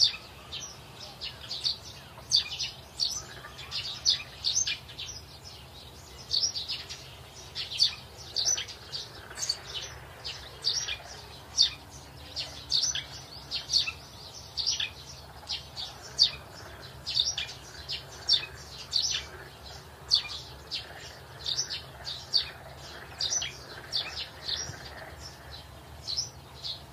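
Birds chirping: a continuous stream of short, high chirps, several a second, over a faint low hum.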